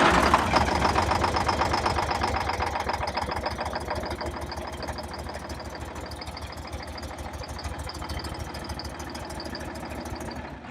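Detroit Diesel 6V92 two-stroke V6 diesel running cold with a fast, even knocking beat. It comes in abruptly and loud, eases lower over the run, and stops near the end. It is running poorly from cold with not all cylinders firing, which the owner puts down to leaking or clogged injectors or stuck piston rings.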